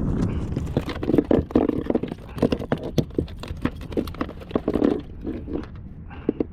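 Rapid, irregular knocking and thudding on a fishing kayak as a fish or gear is handled on board, dense for about five seconds, then a few last taps near the end.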